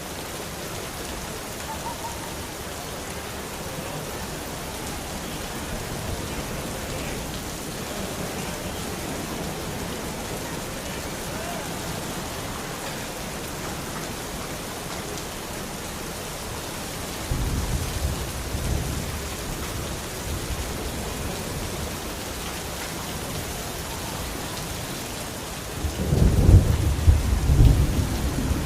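Steady rain falling, with two rolls of thunder: a shorter low rumble a little past halfway, and a louder, longer one near the end.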